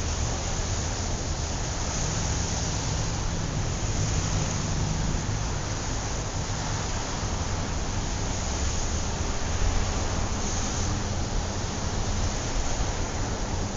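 City traffic ambience: a steady wash of tyre and road noise with the low rumble and hum of passing car engines, continuous and without distinct events.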